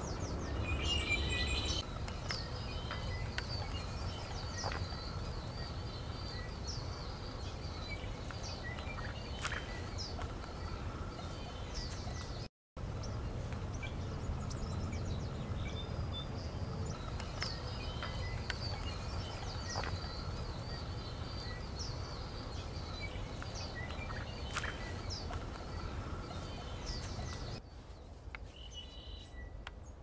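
Outdoor ambience of small birds chirping and twittering over a steady low background rumble, with a brief dropout a little before halfway and a quieter stretch near the end.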